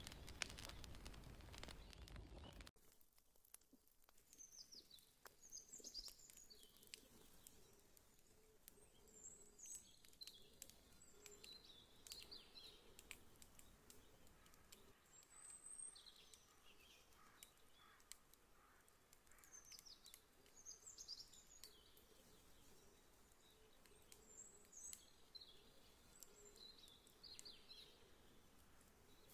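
Faint fire crackling, scattered small pops and snaps, with birds chirping in short repeated phrases. A louder rush of fire noise in the first few seconds cuts off abruptly.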